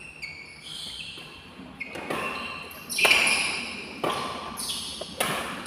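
Badminton rackets striking the shuttlecock in a fast rally: a run of sharp hits about a second apart, each ringing on briefly with a hall echo.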